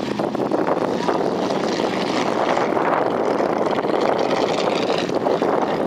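An off-road truck's engine running hard, a steady loud noisy drone.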